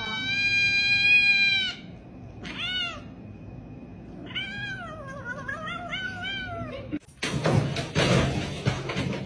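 Cat meowing three times: a long call held on one pitch, a short rising-and-falling meow, then a longer wavering one. A loud burst of scuffling noise with knocks follows near the end.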